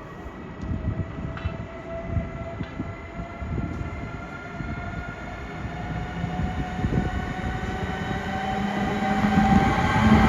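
Siemens Vectron electric locomotive starting off with a passenger train: a motor whine that rises slowly in pitch and grows steadily louder over a low rumble.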